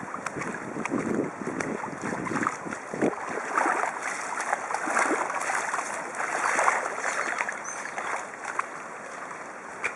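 Floodwater rushing and splashing: a steady rush full of small, quick splashes.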